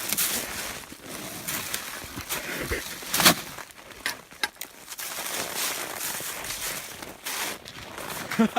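Footsteps and rustling as people move through brush and scattered refrigerator debris, with irregular small clicks and one sharp knock about three seconds in.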